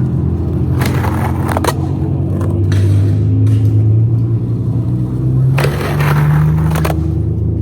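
Skateboard on Spitfire wheels rolling with a steady low rumble, broken by several sharp clacks and scrapes as the Thunder trucks pop onto and grind a ledge in crooked grinds.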